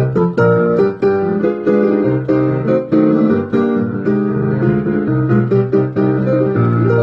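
Piano music playing, a quick run of notes over a low bass line.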